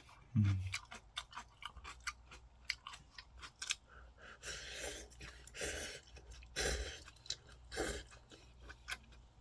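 Kimchi being chewed close to the microphone: rapid crisp crunching throughout, with several longer, louder noisy chewing sounds between about four and eight seconds in.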